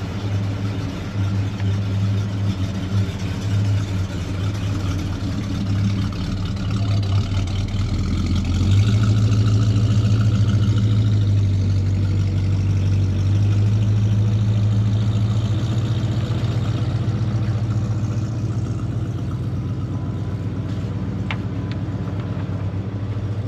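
A Plymouth Road Runner's 440 Six Pack V8, a big-block fed by three two-barrel carburettors, running at idle after being started. It gets louder about nine seconds in and holds there for several seconds, then eases back a little.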